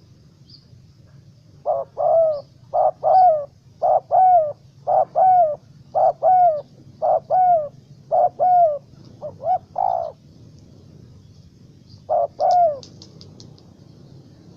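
Spotted dove (tekukur) cooing: a run of about eight two-note coos, each note dipping slightly in pitch, repeated about once a second, then one more coo after a short pause.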